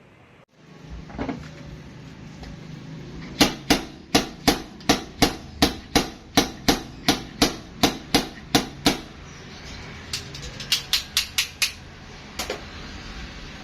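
Hammer blows on metal in dent repair: a run of about fifteen sharp strikes at about three a second, then a quicker group of about six and two more near the end.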